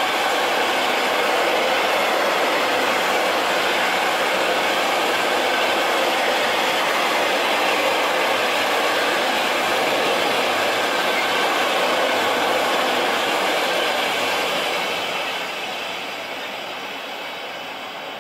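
A train running past on the rails, a steady noise of wheels rolling that fades away near the end as it moves off.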